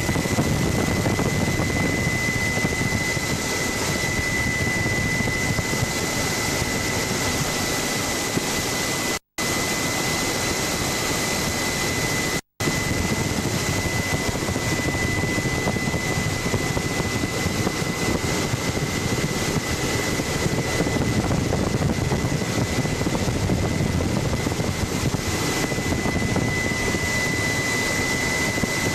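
Helicopter engine and rotor noise heard from on board: a steady, dense rush with a constant high whine on top. The sound cuts out for an instant twice, about nine and twelve and a half seconds in.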